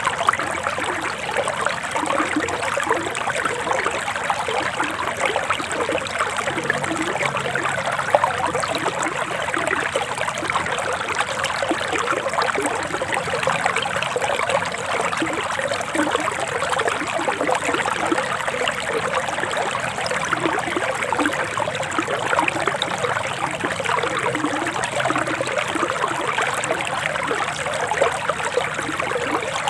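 Forest river water flowing over stones: a steady babble and trickle with soft gurgles underneath.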